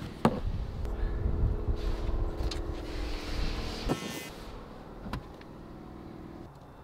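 A vehicle engine running nearby, a low rumble with a steady hum that cuts off abruptly near the end, with a few sharp clicks of something being handled.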